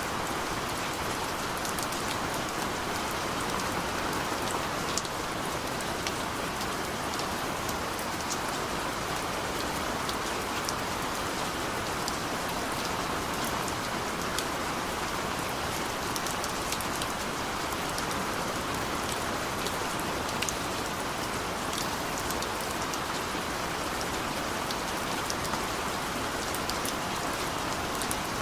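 Steady rain falling on a surface, an even hiss with many fine individual drop ticks.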